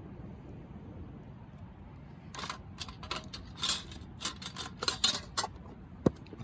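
Camp cookware being handled: a run of irregular clatters and clinks starting a couple of seconds in, then a single sharp click near the end, over a steady low rumble.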